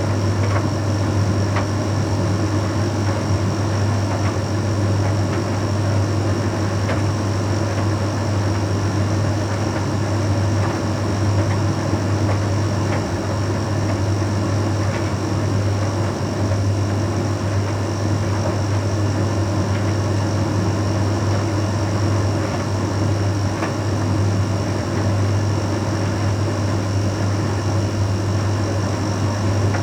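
Bosch Series 6 heat pump tumble dryer running mid-cycle on a Shirts load: a steady low hum with an even rush of air, and a few faint clicks now and then.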